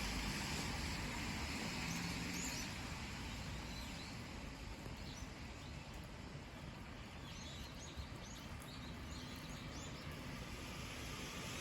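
Steady hiss of falling rain, easing toward the middle and swelling again near the end. A few faint, short, high bird chirps come through in the middle.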